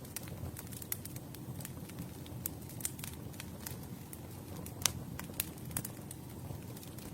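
Campfire burning with the wood crackling: a steady low rumble of flames with scattered sharp pops, the loudest about five seconds in.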